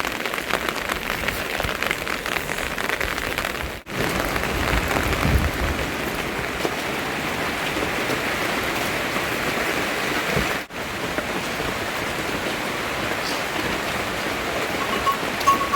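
Steady rain falling on surfaces, a dense, even hiss that breaks off for an instant twice, about four and eleven seconds in.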